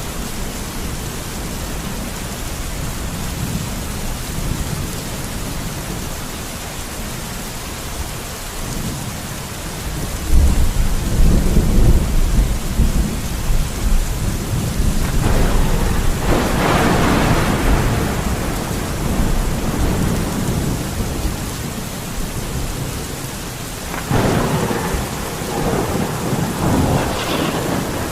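Steady rain with rolling thunder: a deep rumble comes in about ten seconds in and swells into a louder, sharper peal a few seconds later, and another peal rolls in near the end.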